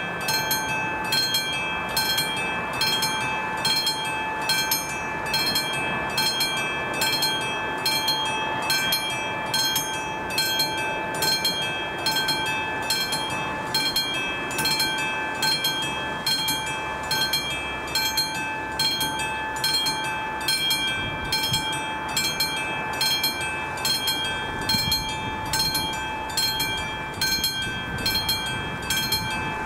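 Level crossing warning bell ringing in an even rhythm, about one and a half strikes a second, while the crossing is active for a train. Beneath it run a steady tone and the low rumble of rail traffic.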